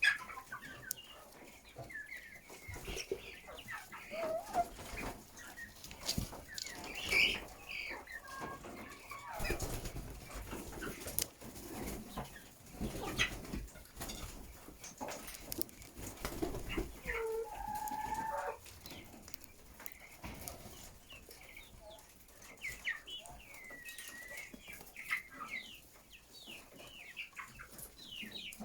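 Chickens clucking and calling in short, scattered calls, with many small clicks and knocks among them.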